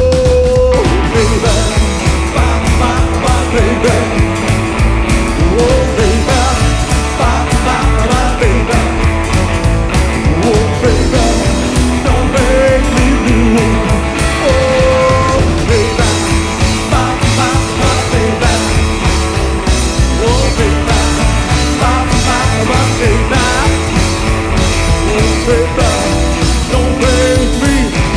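Live rockabilly band playing an instrumental break: a lead melody line wanders and bends over a steady, driving beat of drums and bass.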